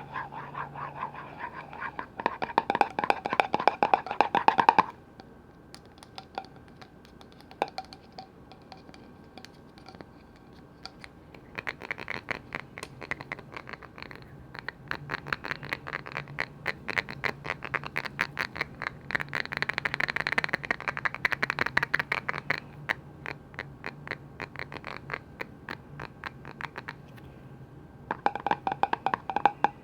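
Fast tapping and scratching on container lids, coming in bursts of rapid clicks separated by quieter pauses.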